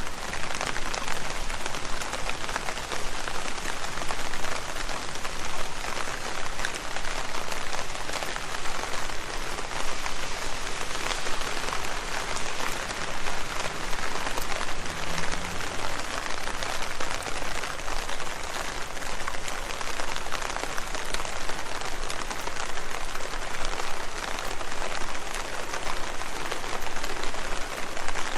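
Steady rain falling on leaves: a dense, even patter of drops.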